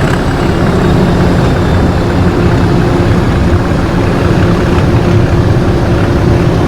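English Electric 12CSVT V12 diesel engine of Class 37 locomotive D6700, running steadily with an unchanging low note.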